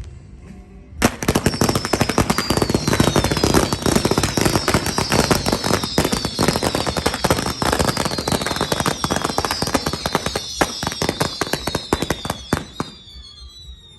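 Fireworks barrage: a fast, unbroken rattle of crackling bangs that starts suddenly about a second in, with repeated high whistles falling in pitch over it, then thins out near the end.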